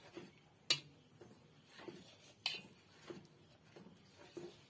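A spoon or ladle stirring in a cooking pot, knocking softly against it about every half second or so, with two sharper clinks on the rim.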